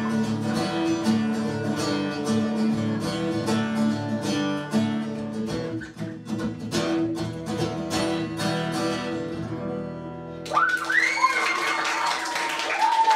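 Strummed acoustic guitar playing the instrumental close of a folk song, stopping about ten seconds in; voices follow right after.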